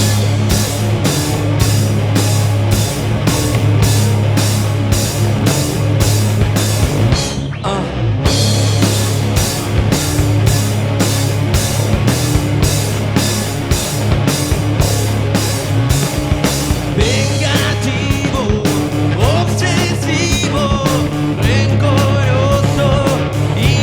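Rock band playing live: a steady drum beat of about two strokes a second with bass and guitar. A voice comes in over the last several seconds.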